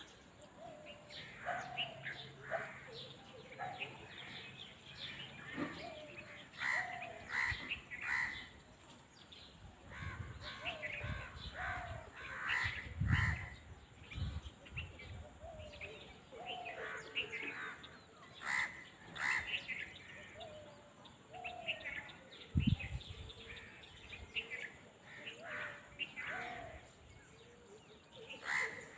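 Several wild birds calling and chirping over one another in open countryside, short repeated calls throughout, some harsh and crow-like. A few brief low rumbles come through near the middle and once more later.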